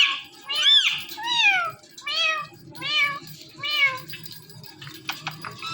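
Indian ringneck parrot mimicking a cat's meow, about six high, arching meows in a row, each rising then falling in pitch, followed by a few short chirps near the end.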